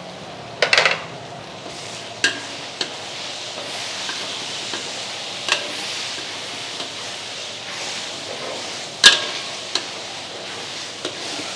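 Ground red chillies frying in oil with garlic and shallots in a large wok: a steady sizzle as a metal ladle stirs them. The ladle clacks sharply against the wok several times, loudest about nine seconds in.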